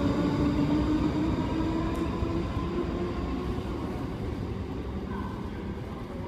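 Passenger train running along a platform in an underground station, a low rumble with a steady hum and a few higher tones, growing steadily fainter as it moves off.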